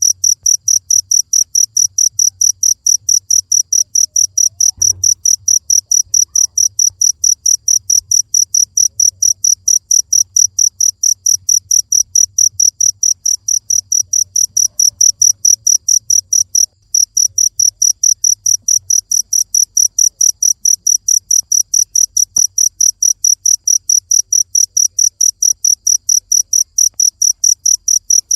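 A cricket chirping steadily, about three to four high-pitched chirps a second, with one brief break about two-thirds of the way through.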